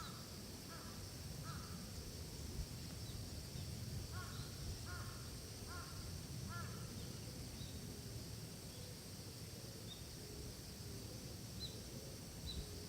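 A crow cawing in two runs of about four caws each, with faint, short high chirps from small birds and a steady high hiss of forest ambience behind.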